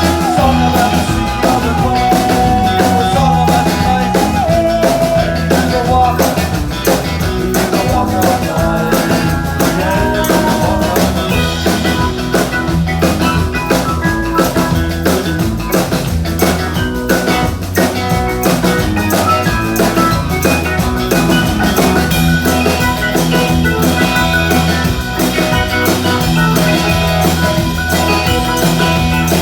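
Live band playing rock music with a drum kit beat.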